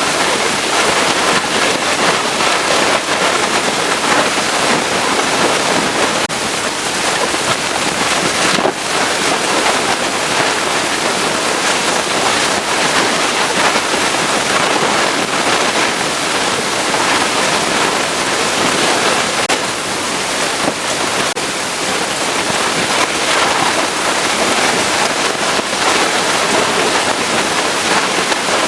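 Pressure washer spraying water onto a vehicle: a loud, steady hiss of spray, broken only briefly about nine seconds in.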